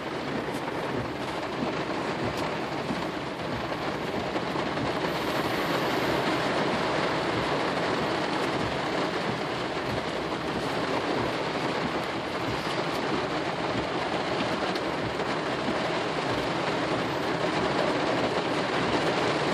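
Steady rushing noise of heavy rain and flood water around a car, heard from inside the cabin as it drives along a flooded road.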